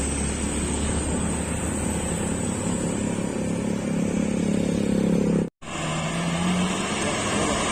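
Road traffic with a heavy truck engine droning steadily, its pitch creeping up slightly. The sound drops out completely for a split second about five and a half seconds in, then the road noise carries on.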